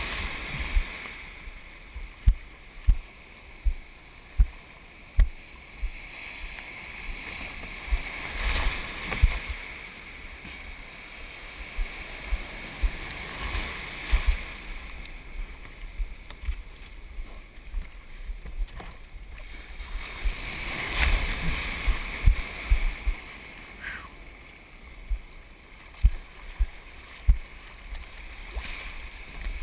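Water rushing and sloshing around a surf kayak in the surf, with a steady hiss that swells into louder rushes a few times. Many short low thumps are scattered throughout.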